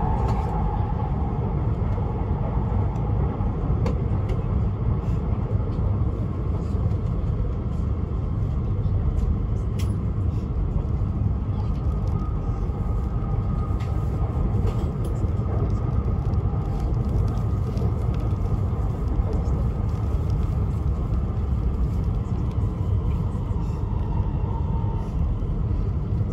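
Steady low rumble of a Tohoku Shinkansen Hayabusa train running at speed, heard from inside the passenger cabin, with a few faint clicks.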